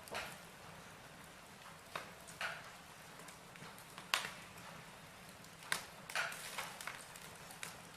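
Wood fire in a fireplace: burning logs crackling and popping at irregular intervals over a steady low hiss, with one sharper pop about four seconds in and a quicker run of pops near the end.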